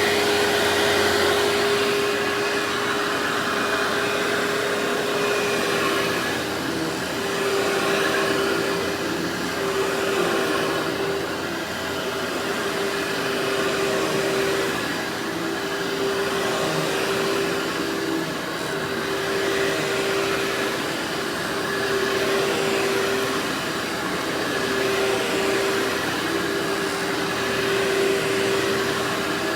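Vacuum cleaner running steadily with a constant motor whine, its loudness swelling and easing every two to three seconds.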